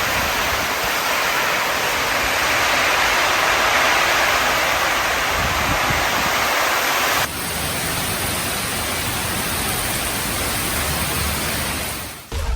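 Steady hiss of heavy rain and wind from a tropical storm. It comes in two stretches, with a sudden step to a slightly quieter hiss about seven seconds in.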